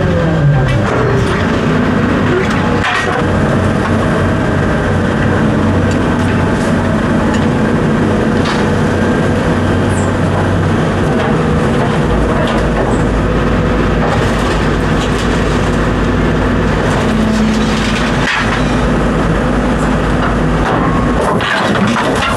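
Steady, loud rumble of a running vehicle or machine, with scattered rattles and clicks.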